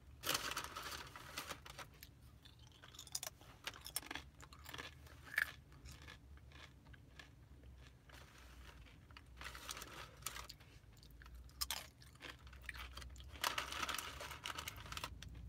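Close-miked chewing of a shrimp bowl, with scattered wet clicks and soft crunches. They come in clusters, thickest at the start and near the end.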